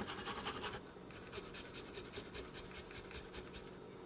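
Fresh ginger being grated, a quick, even run of rasping strokes, about eight a second, that stops shortly before the end.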